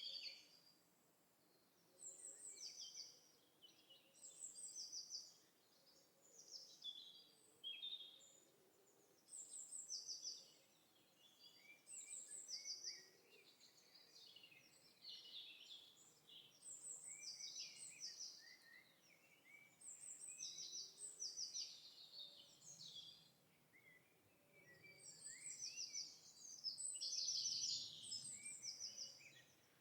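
Birds singing: short high chirping phrases and quick trills, one after another every second or two, over faint background noise.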